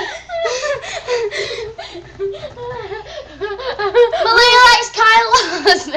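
A young person's high voice, chattering and giggling, loudest about four seconds in.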